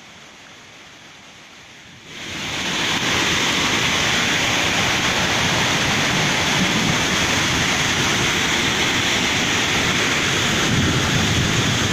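Floodwater of a swollen river rushing, a steady loud noise that swells in about two seconds in, after a fainter steady hiss.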